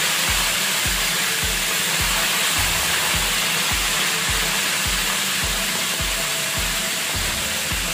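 Chicken liver frying in hot oil, a steady sizzle, over background music with a steady beat of about two thumps a second.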